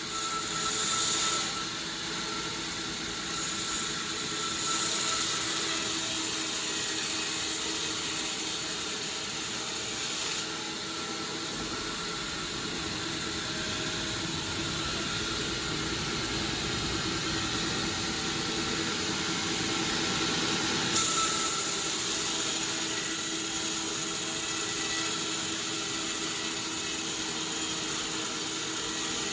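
Sawmill saw machinery running steadily with a constant whine and hiss. The sound changes abruptly about ten seconds in, when the high hiss drops away, and again about twenty-one seconds in, when it comes back.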